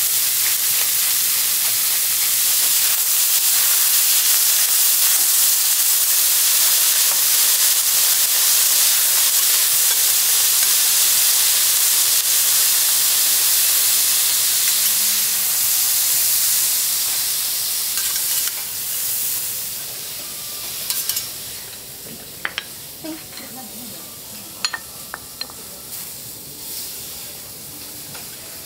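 Bean sprouts and Wagyu beef trimmings sizzling loudly on a hot steel teppanyaki griddle as the chef works them with a spatula. The sizzle dies down about two-thirds of the way through, leaving a quieter stretch with a few light clicks.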